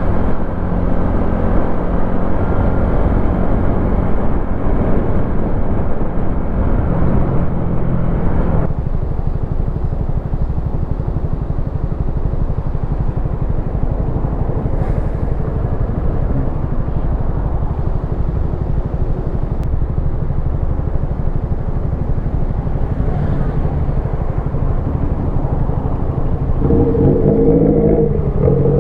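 Wolf Classic 125cc single-cylinder motorcycle engine running on the move, with low wind rumble on the microphone. The engine note drops off suddenly about nine seconds in, then comes up again near the end as the bike accelerates.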